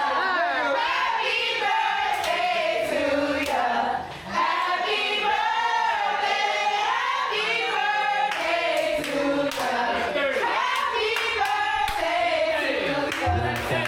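A group of people singing together, with a few hand claps mixed in.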